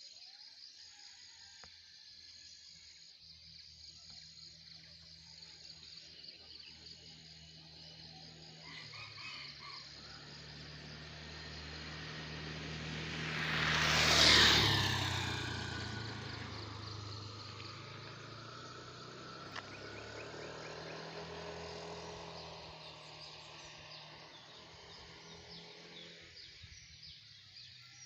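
A truck passing by: its engine comes closer, is loudest about halfway through, then fades away. Crickets chirp steadily throughout.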